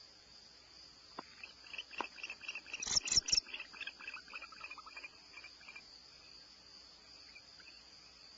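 A rapid series of short, high chirping calls, about five a second, rising in and fading over roughly four seconds, with a few sharp clicks at the loudest point about three seconds in; taken for a barn owl twittering. A steady high drone of crickets runs underneath.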